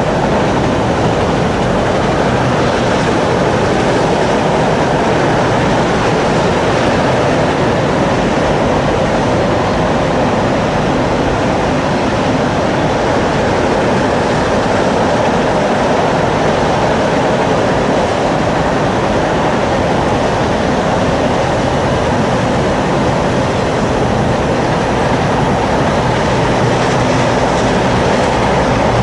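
A train rolling past, a steady, loud rumble of its cars running on the rails.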